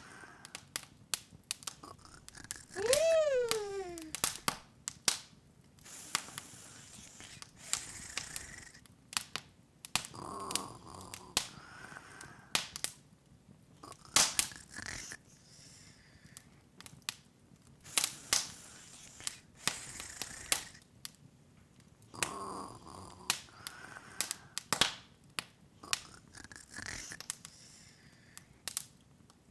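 Wood fire crackling, with frequent sharp pops. About three seconds in, a loud pitched sound glides downward for about a second.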